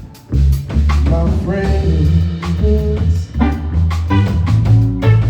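Live blues band playing an instrumental passage, with guitar and drum kit over a strong low bass line; the music drops out briefly at the start, then comes straight back in.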